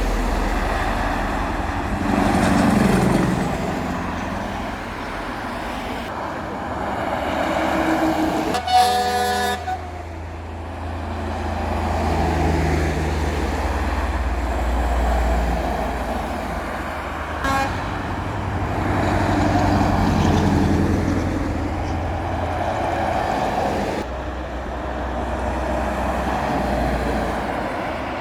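A line of heavy trucks driving past one after another, their engines and tyres swelling and fading with each pass. A truck horn sounds one blast of about a second, about nine seconds in, and a short toot later.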